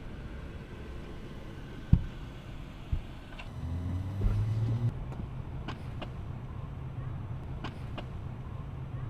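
A car's engine idling with a low, steady hum. Two short thumps come about a second apart early on, and the hum grows louder for about a second and a half near the middle.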